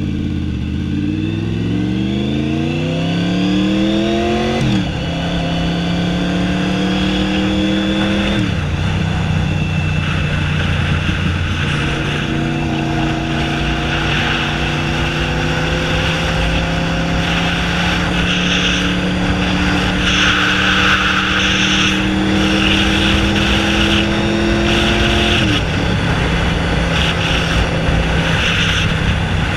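Honda VFR750F's V4 engine, running without a muffler, accelerating hard in a low gear. Revs drop sharply at upshifts about 5 and 8½ seconds in, then it pulls at steady revs that slowly rise before falling again about 25 seconds in.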